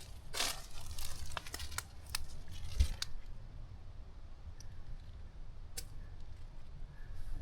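Footsteps crunching and crackling through dry ground cover, several steps in the first three seconds, then only a few faint crackles.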